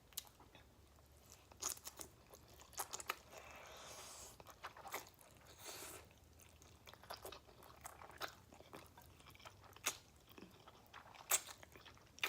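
Close-up mouth sounds of spicy ramen noodles being eaten: soft, scattered wet chewing clicks, with a longer hissing stretch near the middle.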